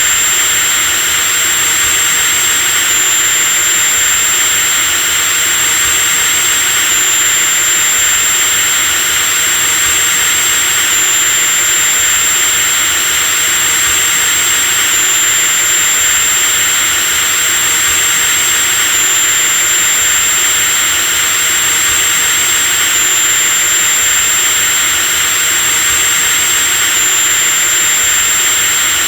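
Electric drill motor running steadily without a break: a constant whirring rush with a high-pitched whine on top.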